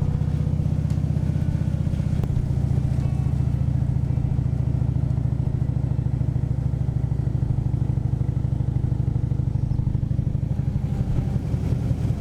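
Harley-Davidson V-twin motorcycle engine running steadily under way, heard from on the bike, with a deep pulsing exhaust note. Near the end its note changes.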